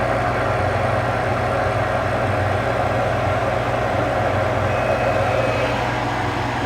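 Gas furnace running steadily with its burners lit and blower going, a low hum under an even rushing noise: the furnace is firing and working properly.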